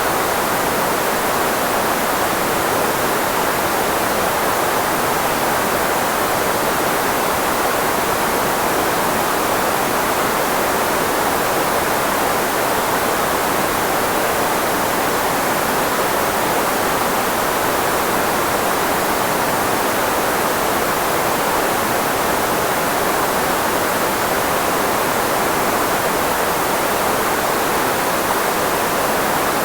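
Steady filtered white noise, shaped to cover the frequencies of the human voice, with most of its energy in the middle range, like a constant rushing hiss.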